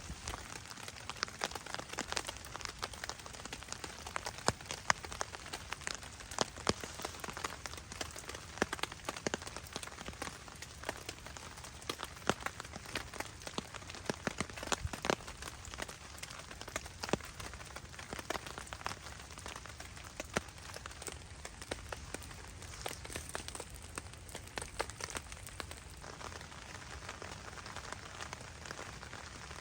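Steady heavy rain, with many sharp, separate drop taps over an even hiss.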